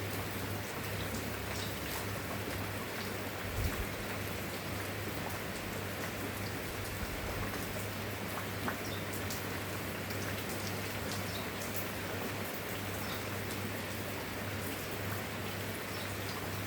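Steady rainfall with scattered close drop ticks over an even hiss, and a low steady hum underneath. There is one short low thump about three and a half seconds in.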